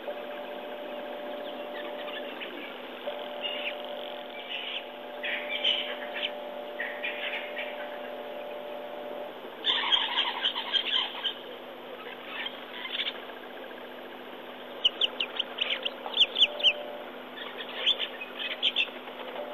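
Wild birds calling and chirping in bursts, loudest about ten seconds in and in a quick run of sharp chirps near the end, over a steady hum.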